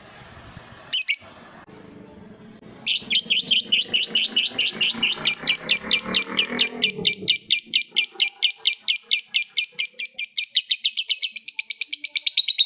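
Lovebird giving its long 'ngekek' chatter: one short shrill call about a second in, then from about three seconds an unbroken, rapid string of shrill notes at about six a second.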